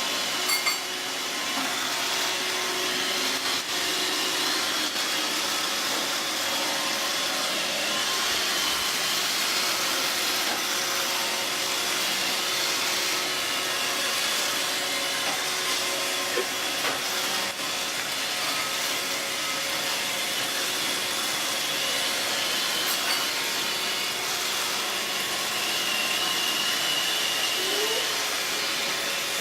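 Robot vacuum cleaner running: a steady, even hiss with a faint high whine.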